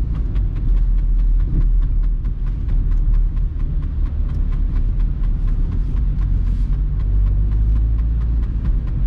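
Inside the cabin of a VW Golf Mk3 with the 1.9 TDI diesel, driving: a steady low drone of engine and road, with a rapid, even ticking over it, about four ticks a second.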